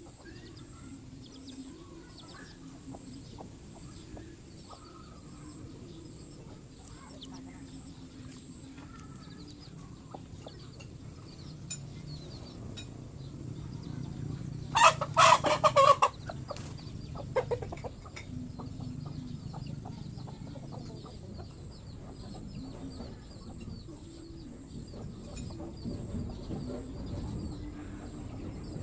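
A chicken gives a quick run of loud calls about halfway through, with one more short call a moment later, over low background noise.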